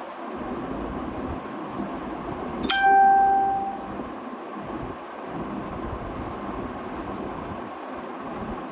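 A single bell-like ding, struck once about three seconds in and ringing for about a second, over a steady rumbling noise.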